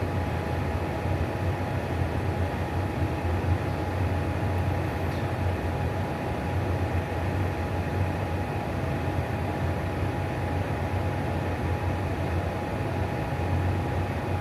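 Atwood RV propane furnace running with burner lit: a steady blower-fan rush over a low hum, with a thin steady whine. The fan runs smoothly, a sign of the furnace in good working order.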